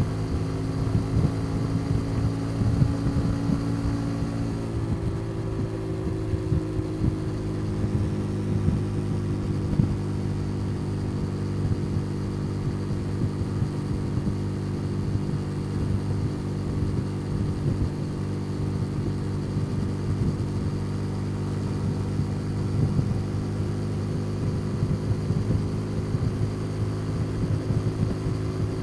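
Motorcycle engine running at a steady cruising speed, heard from on the bike as an even, low drone; the engine note shifts slightly about five seconds in.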